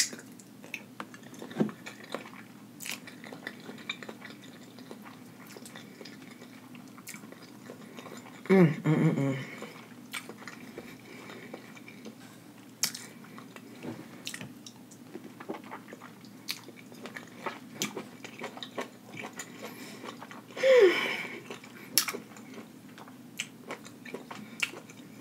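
Close-up eating sounds of a saucy seafood boil: chewing with wet mouth clicks and lip smacks throughout. Two brief hums come about 9 seconds in and again near 21 seconds.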